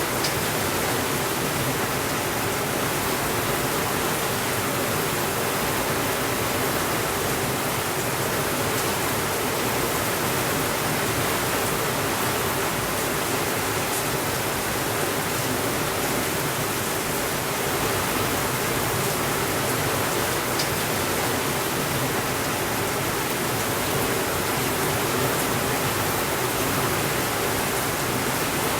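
Steady rainfall, an even unbroken hiss with no thunder. A couple of faint ticks are heard, once about halfway through and again about two-thirds in.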